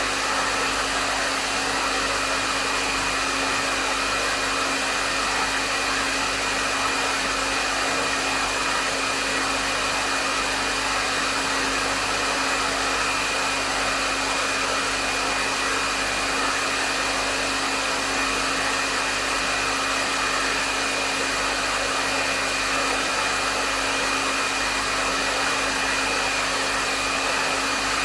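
Hair dryer running steadily at a medium setting: a continuous rush of airflow with a steady motor whine, no changes in speed or level.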